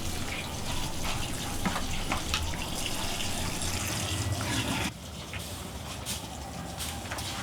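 Running water, a steady rushing noise that drops abruptly in level about five seconds in.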